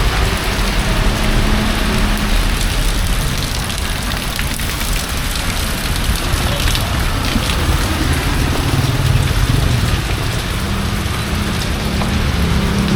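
Rain falling steadily, with a motor vehicle's engine as a low hum under it at the start and again near the end.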